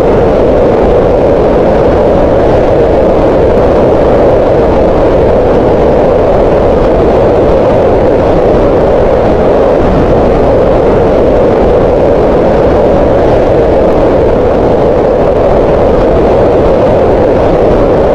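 Green noise: a steady, unbroken hiss with its energy centred in the middle range around 500 Hz, softer in the highs.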